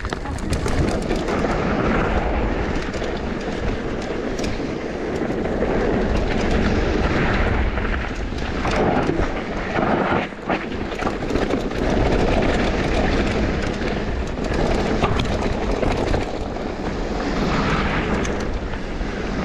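Mountain bike running down a bike-park trail: a steady rumble of tyres rolling over dirt and gravel with frequent rattles and knocks from the bike, easing briefly about halfway through.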